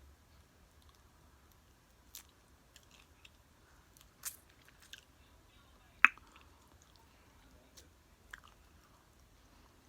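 Close-miked chewing and crunching of tortilla-chip nachos: scattered sharp crunches with quiet chewing between them, the loudest crunch about six seconds in.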